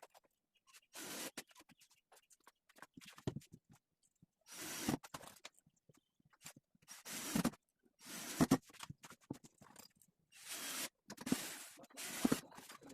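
Workshop handling noises: about seven separate scraping strokes, each under a second, with light clicks and knocks between them.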